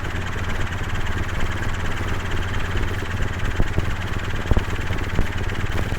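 Helicopter in flight heard from inside the cabin: steady engine and rotor noise with a constant low hum.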